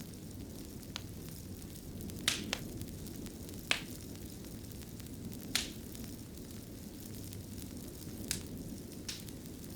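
Fireplace wood fire burning with a steady low rumble and irregular sharp crackles and pops, about one every second or two.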